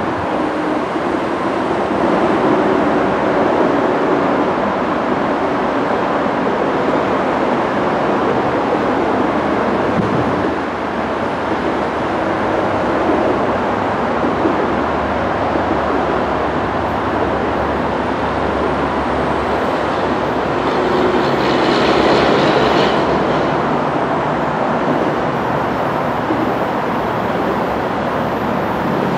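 Trinity Railway Express commuter train approaching on the track, with a steady loud rumble that stays level throughout and a brighter, hissier stretch a little after twenty seconds in.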